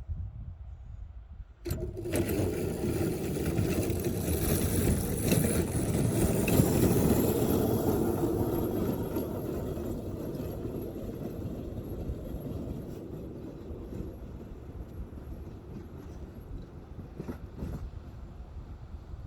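Engine of a small railroad locomotive running as it pushes a snow plow along the track, starting abruptly about a second and a half in, loudest in the middle and then easing off.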